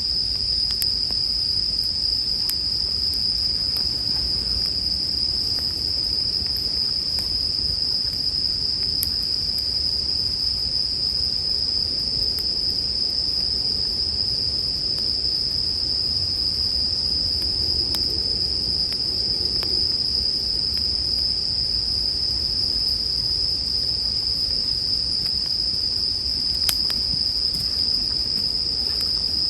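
Japanese bell crickets (suzumushi) trilling in a steady, unbroken high-pitched chorus. A few faint sharp clicks and a low rumble underneath fit a campfire crackling.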